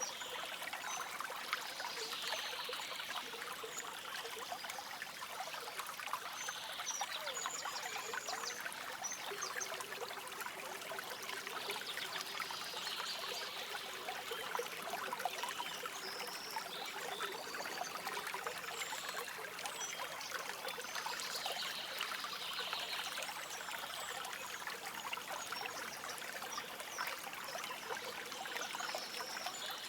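A stream trickling and babbling steadily, with short high bird chirps scattered throughout.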